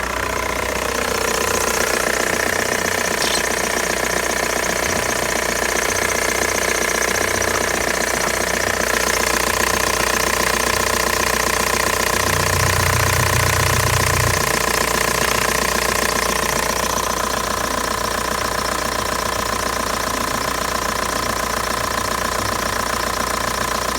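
Ford Focus 1.8 TDDi (C9DC) four-cylinder diesel engine running steadily.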